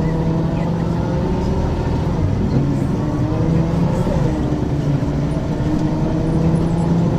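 Ikarus 435 articulated bus's diesel engine pulling under load through its ZF automatic gearbox, the engine note climbing and dropping back twice, about two and four seconds in, as at gear changes.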